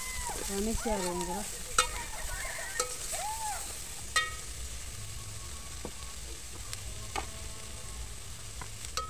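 Omena (small silver lake fish) with tomatoes frying in an aluminium pot, sizzling steadily while a metal spoon stirs them. The spoon knocks the pot with a ringing clink several times, loudest three times in the first half.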